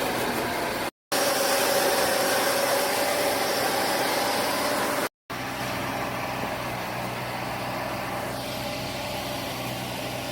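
Rice harvesting machine's engine running steadily with mechanical noise, in spliced clips that drop out to silence briefly about a second in and again about five seconds in.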